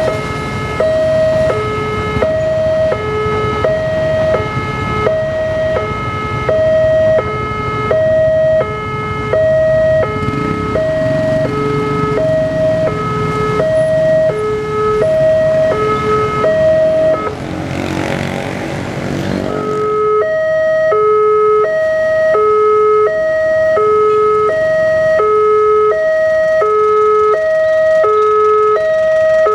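Railroad level-crossing warning alarm sounding two alternating tones, high then low, about one pair a second, while a passing train rumbles underneath. The train noise swells and then falls away about twenty seconds in as the train clears the crossing, and the two-tone alarm keeps sounding.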